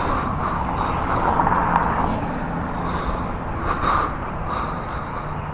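450 dirt bike engine running at low, steady revs under a steady rush of wind and road noise.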